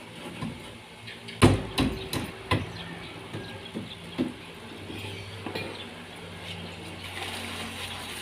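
Hammer strikes during carpentry work on a divider: several sharp knocks in quick succession about a second and a half in, then a few scattered single knocks.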